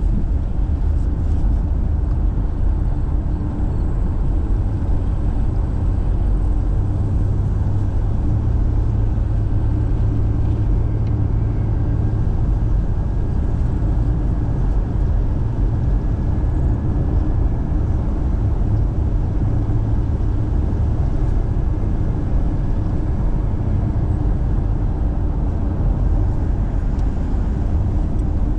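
Steady low rumble of a car driving, engine and road noise running evenly, with a faint high tone in the middle stretch.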